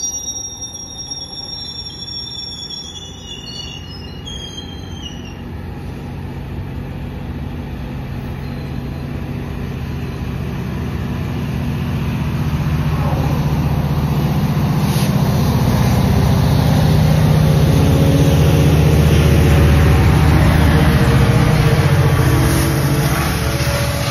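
A GO Transit commuter train of bilevel coaches rolls past, with a high wheel squeal that fades away over the first few seconds. Then the rumble grows as the MP40PH-3C diesel locomotive pushing at the rear comes past. Its engine drone is loudest about two-thirds of the way through and eases off near the end.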